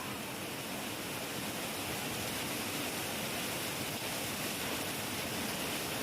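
Heavy rain falling steadily: an even, dense hiss without distinct drops or thunder.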